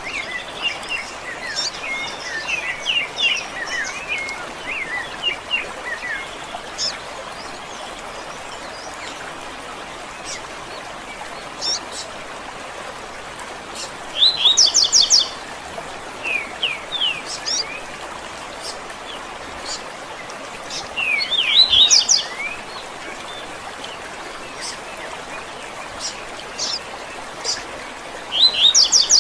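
Several songbirds singing: a run of quick chirps in the first few seconds, then three louder bursts of song about seven seconds apart, with scattered single chirps over a steady background hiss.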